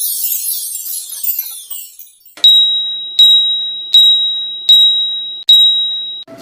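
A high tinkling sparkle effect, then five bright bell dings at one high pitch, evenly spaced about three-quarters of a second apart, each ringing and fading before the next.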